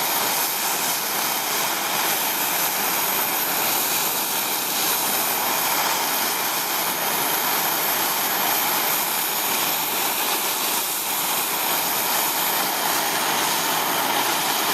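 MAPP gas torch burning with a steady hiss, heating an aluminium oil pan before brazing.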